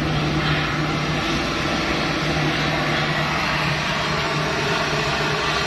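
Turboprop engine of an L-410 UVP Turbolet, a Walter M601, running steadily on the ground with its propeller turning at a fixed power setting. It is a constant hum with a dense rushing noise over it.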